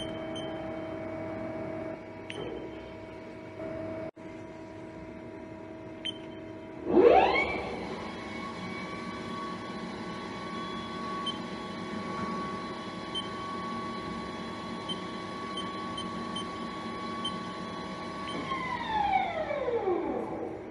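Haas ST40 CNC lathe spindle spinning up with a quick rising whine about seven seconds in, running at a steady pitch, then winding down with a falling whine near the end. Before the spin-up the machine hums steadily, with a few faint beeps.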